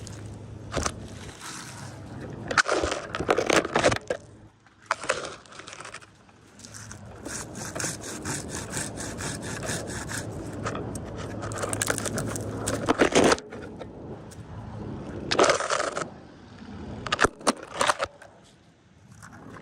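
Bursts of scraping and rasping against dead spruce wood, the longest lasting about six seconds, over a steady low hum.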